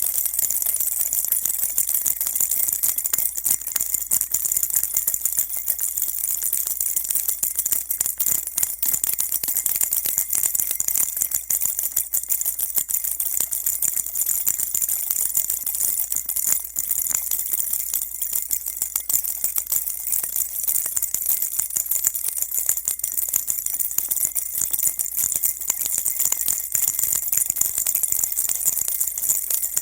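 Baby rattle shaken without pause: a steady, dense, bright jingling rattle of many tiny clicks, with no breaks or changes.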